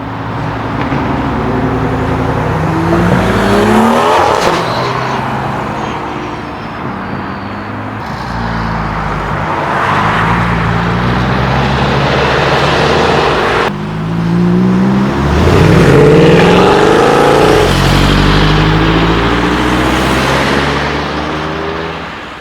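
Tuned cars accelerating away one after another, their engines revving up in rising surges as they pass. The loudest pull comes about two thirds of the way in.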